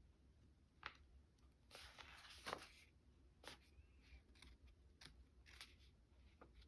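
Faint desk-work handling sounds: a few scattered light clicks and a brief rustle about two seconds in.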